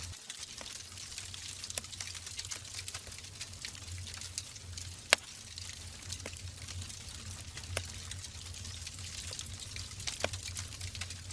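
Wood logs burning in a fireplace: a steady hiss with a low rumble, broken by irregular sharp crackles and pops, the loudest about five seconds in.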